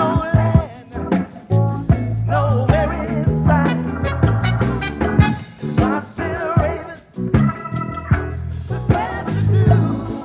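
A live gospel band plays an upbeat, funky groove: drums and electric bass keep a steady beat while a wavering lead melody line rises and falls above them.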